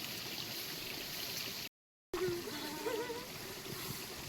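Steady wash of heavy rain and running water. It cuts out completely for about half a second midway, and a faint wavering pitched call follows just after the gap.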